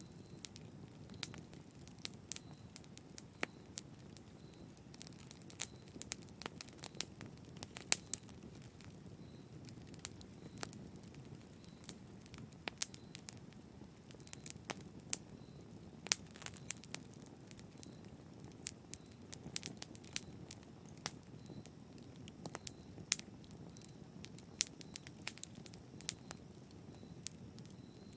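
Wood fire crackling: irregular sharp pops and snaps over a low, steady hiss of burning.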